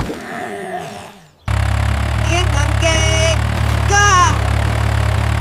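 Cartoon tractor engine sound effect: a steady low running note that cuts in suddenly about a second and a half in, after a short click. A few short pitched voice sounds come over it.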